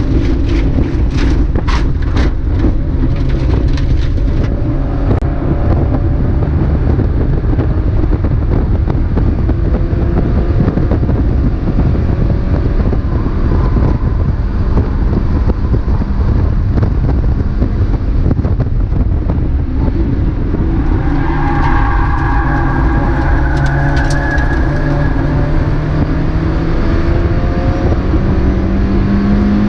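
Mazda MX-5 race car's engine running hard under heavy road and wind noise, its pitch climbing through the revs and dropping back with each gear change. A quick run of sharp clicks sounds in the first few seconds.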